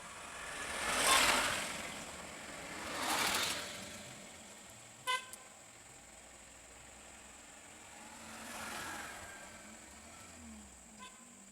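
Road vehicles passing by in three swells of tyre and engine noise, each rising and fading. A short horn toot sounds about five seconds in, and a fainter one comes near the end.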